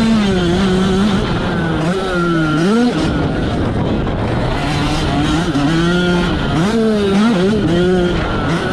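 Yamaha YZ85 two-stroke motocross engine under hard riding, its revs rising and falling several times as the throttle is worked, over heavy noise from wind and the track.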